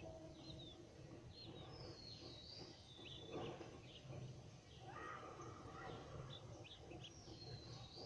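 Faint birds chirping, with short high calls scattered throughout over a low steady background noise.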